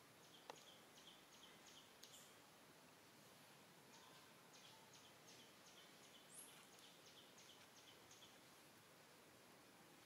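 Near silence with faint outdoor background and a distant bird's short high chirps, repeated about three a second in two runs with a pause between.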